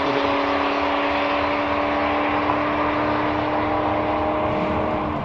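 A vehicle engine running steadily at a constant pitch, with a steady hum that stops about five seconds in.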